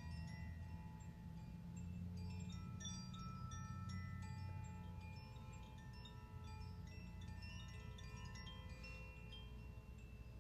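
Wind chimes ringing in a sound-healing session: many overlapping bell-like tones of different pitches struck one after another and left to ring out, over a low steady hum that fades a little about halfway through.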